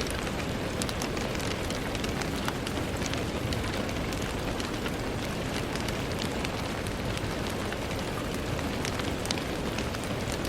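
Steady gentle rain on a window pane, a constant hiss with many small drop ticks scattered throughout.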